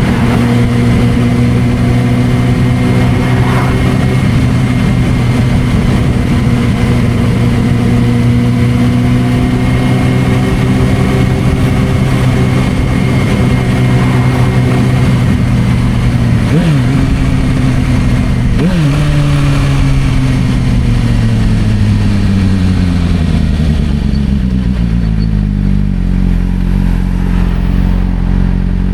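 Suzuki GSR600's inline-four engine through a Dominator aftermarket exhaust, running at a steady cruise. About two-thirds of the way through it gives two short throttle blips, then the revs fall away gradually and settle to a steady low idle near the end.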